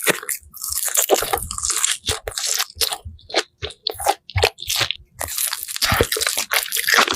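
Close-miked eating of crunchy food: bites and chewing crunches, dense at first, a few separate crunches in the middle, then dense again near the end.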